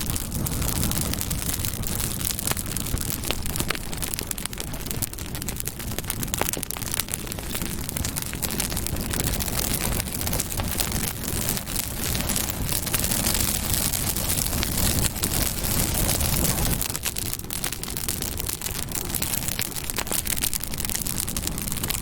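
Campfire burning, crackling steadily with many small sharp pops over a low rush.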